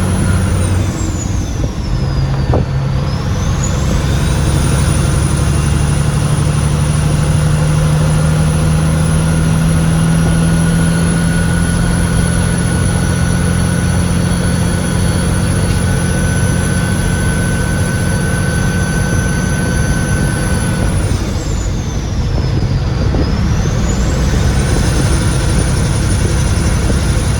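Loaded log truck's diesel engine running steadily while driving, heard from the cab. The engine note shifts twice, and a high whine dips in pitch and recovers each time.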